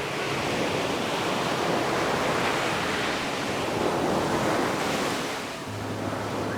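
Ocean surf washing onto a beach: a steady rush of breaking waves that swells, eases off about five and a half seconds in, and starts to build again.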